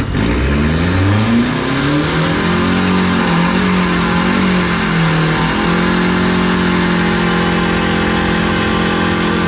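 Modified turbo-diesel pickup truck's engine revving hard, climbing in pitch over the first two seconds, wavering, then held steady at high revs from about halfway in, as the truck spins its tyres in a burnout to heat them before the run.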